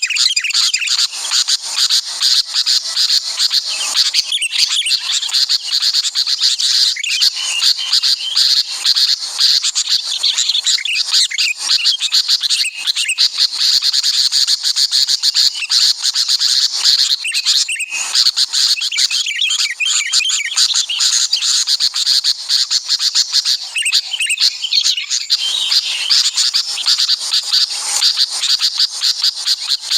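Dense, continuous bird chirping and calling, many rapid high chirps overlapping, over a steady high insect-like trill.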